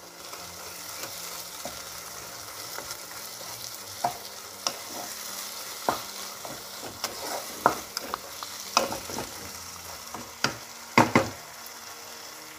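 Mutton curry with methi leaves sizzling in oil in a pan while it is stirred with a spatula. Scrapes and clicks of the spatula against the pan break in now and then over the steady sizzle, the loudest pair near the end.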